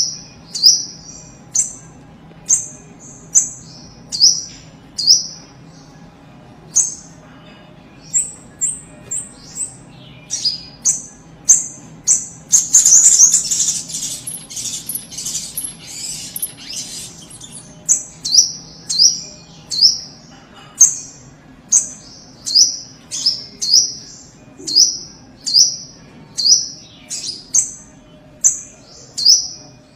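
Little spiderhunter (sogok ontong) calling: short, high notes that fall in pitch, repeated about once a second and often in quick runs of two or three. About twelve seconds in, a dense, rapid run of notes lasts for several seconds.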